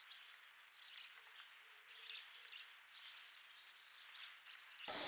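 Faint birds chirping, short chirps repeating over quiet outdoor air. Loud music cuts in suddenly at the very end.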